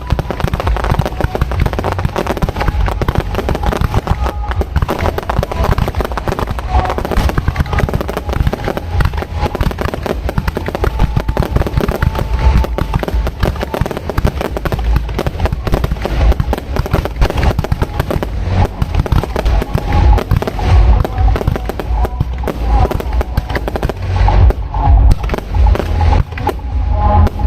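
Fireworks display at close range: a rapid, continuous barrage of bangs and crackles with heavy low booms, with no let-up.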